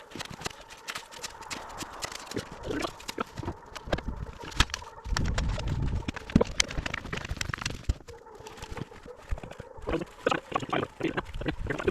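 Snow shovel scraping and chopping into packed snow, with crunching footsteps: a run of uneven crunches and knocks, and a longer heavier scrape about five seconds in.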